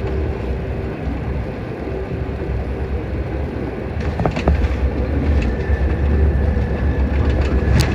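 Airliner cabin noise during landing: a steady low rumble of engines, airflow and wheels, swelling about halfway through, with a few sharp clicks.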